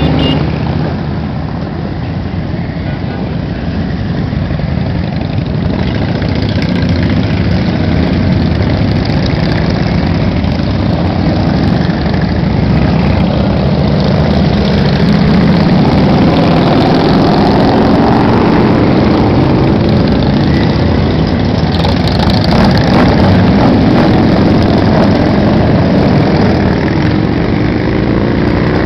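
Loud, steady din of many motorcycle engines running together, with some engines revving up and down partway through.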